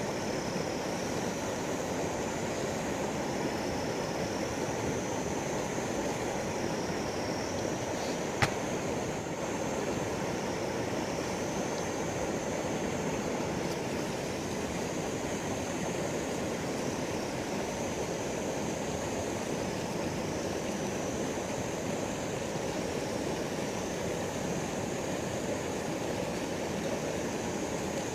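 River water flowing steadily. Above it a thin high-pitched tone slowly wavers up and down throughout, and there is one sharp click about eight seconds in.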